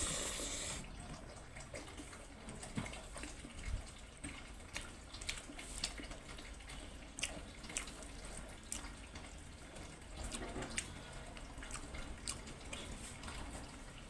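Wet chewing and lip-smacking of a person eating rice and pork curry by hand, with irregular sharp mouth clicks.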